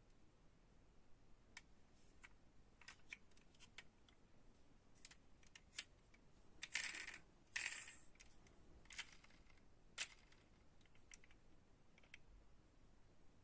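Faint light clicks and taps of small diecast model cars and their packaging being handled. Two short rustling scrapes come about seven seconds in.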